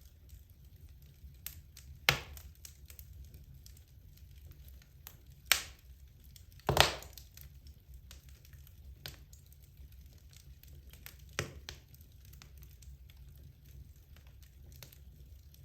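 Wood logs burning in a fireplace: scattered crackles and pops over a low steady rumble, with a few louder pops, the loudest about seven seconds in.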